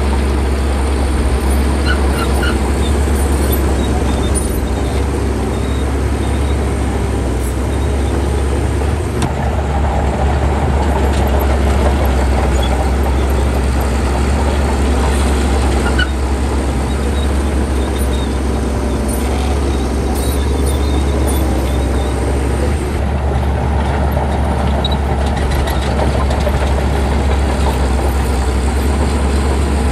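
Heavy earthmoving machine's diesel engine running steadily under work, a deep, even drone.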